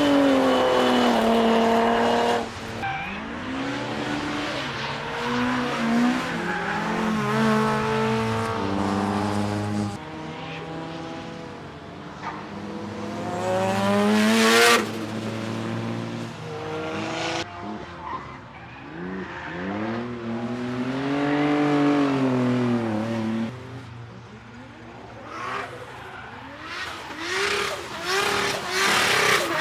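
Several retro and classic cars lapping a race circuit, their engines revving up and down through the gears as they pass one after another, with tyre squeal from cars sliding sideways in a drift. The loudest pass, about halfway through, climbs in pitch and then drops away sharply.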